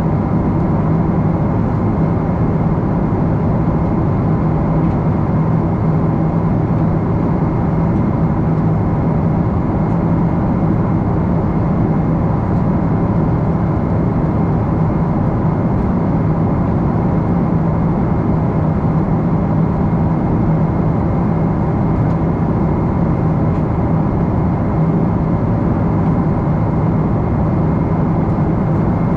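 Steady in-flight cabin noise inside a Boeing 777-300: the jet engines and rushing airflow make one constant loud drone with a low hum and fainter steady tones above it.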